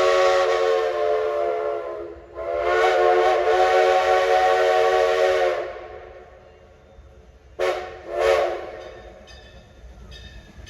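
Steam train's chime whistle sounding a chord of several notes: the end of one long blast, a second long blast, then two short toots about half a second apart.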